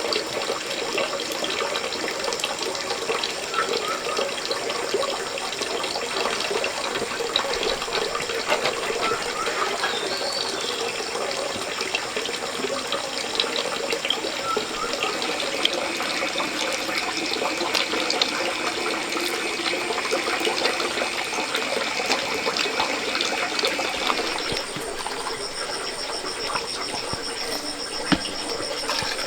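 Steady rush of flowing water. A high insect buzz joins about halfway through, and high pulsing calls of insects or frogs come in for the last few seconds.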